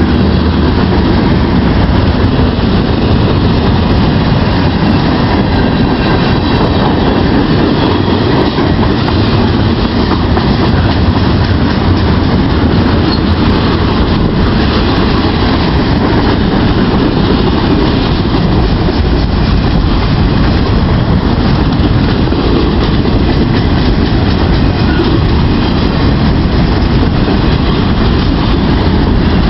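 Norfolk Southern freight train rolling past at high speed: a loud, steady rumble of cars and wheels on the rails.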